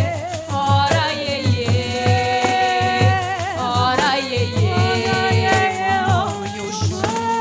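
Live music: pandeiro frame drums keeping a steady rhythm of low thumps and jingle strokes, under long, wavering sung notes.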